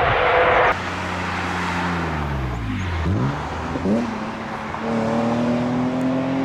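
Airliner jet engine noise that cuts off abruptly under a second in, followed by a vehicle engine whose pitch falls for about two seconds, dips, then rises and holds steady.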